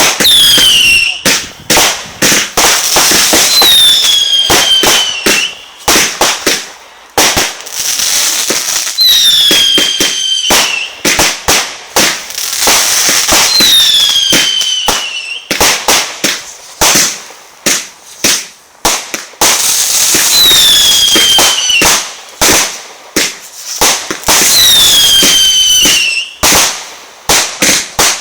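Fireworks going off in quick succession: rapid loud bangs and crackles, with six whistling shots spread through, each whistle falling in pitch over a second or two.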